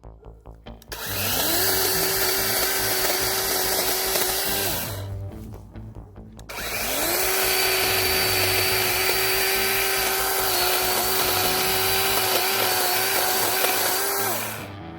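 DeWalt DCCS620 XR cordless chainsaw running twice as it cuts oak: its electric motor whines up to speed about a second in, runs for a few seconds and winds down, then spins up again and runs steadily for about seven seconds before winding down near the end.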